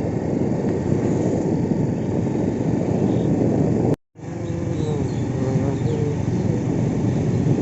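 Steady vehicle rumble and road noise, heard from on board a moving vehicle. It cuts out briefly about four seconds in, then resumes.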